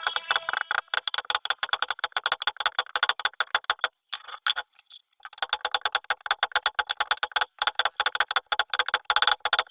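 Rapid, even metallic clicking, around ten clicks a second, breaking off briefly about four seconds in and then going on again.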